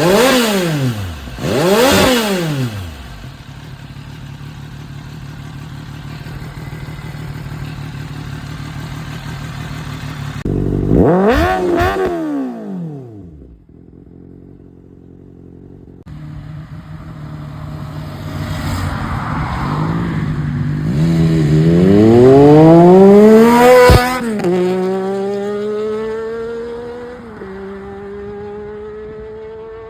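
High-revving sport-motorcycle engines and exhausts passing and accelerating. Their pitch swoops up and down as they go by in the first seconds and again about eleven seconds in. Later one engine revs higher and higher to the loudest point about two thirds of the way through, then drops suddenly as it shifts gear and runs on at a steadier pitch.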